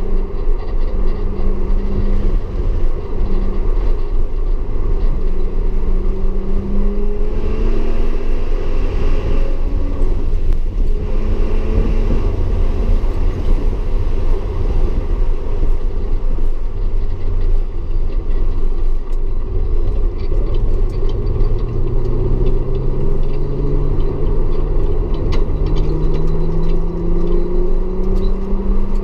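Audi S4's engine pulling and easing off as it laps the track, over a steady low rumble. The engine pitch rises and falls a few times, then climbs slowly in one long pull near the end.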